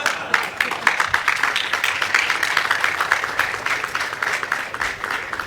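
Audience applauding: many hands clapping, dying down toward the end.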